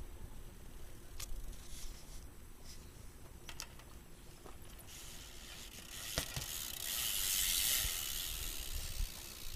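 BMX bike rolling on a concrete sidewalk: a hiss from the tyres builds from about five seconds in and is loudest as the bike passes close, with a sharp click about six seconds in and a few faint clicks earlier.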